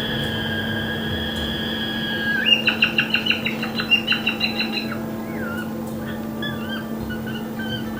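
Cockatoo chick's begging call: a fast series of beeping notes, about five a second, the beep-beep-beep heard while the chick is fed by its parent. A steady high tone holds before the beeping, and short gliding chirps follow it.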